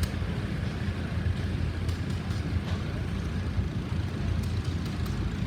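A large engine running steadily, a low, fast-pulsing rumble, with a few faint clicks over it.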